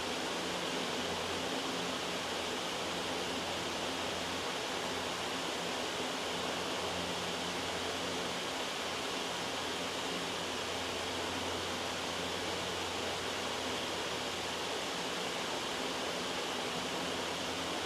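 Steady white noise: an even, unbroken hiss with a faint low hum beneath it.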